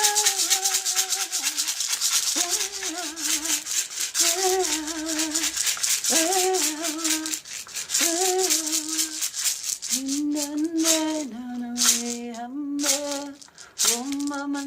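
A woman singing wordless light-language phrases with a wavering vibrato over a hand rattle shaken fast and steadily; near the end the rattle breaks into separate shakes and she holds longer, lower notes.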